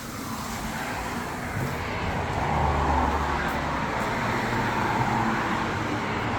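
Street traffic noise, with a passing vehicle that swells to its loudest about halfway through and then eases off.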